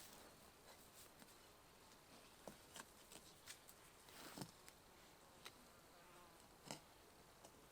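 Near silence, broken by a few faint, scattered clicks spaced irregularly.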